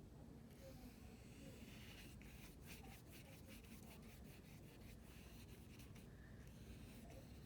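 Faint scratchy strokes of a paintbrush on paper, with a quick run of short strokes through the middle.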